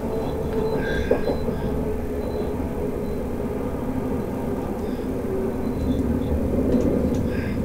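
Passenger train running at speed, heard from inside the carriage: a steady rumble with a low hum.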